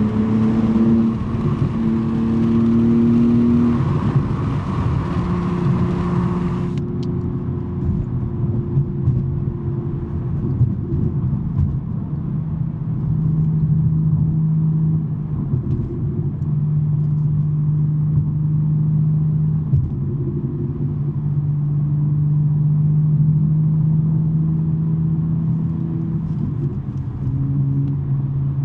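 2023 BMW M3's twin-turbo straight-six with a non-resonated J-pipe exhaust, cruising with a steady drone. Its pitch steps up or down a few times as the engine speed changes.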